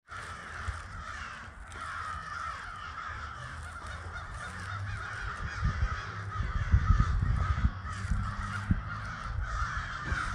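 A large flock of crows cawing together, many calls overlapping into a continuous din. A low rumble on the microphone grows louder from about halfway through.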